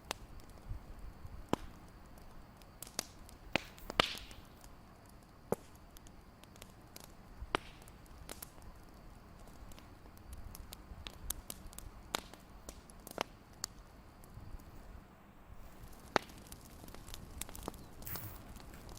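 Fireplace crackling: irregular sharp pops and snaps over a low steady hiss, with a couple of louder pops about four seconds in.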